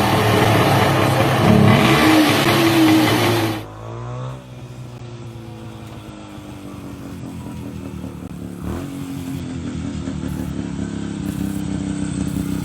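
TWN split-single two-stroke motorcycle engine revving hard. About four seconds in, the sound cuts to a quieter engine running, its pitch and loudness rising slowly.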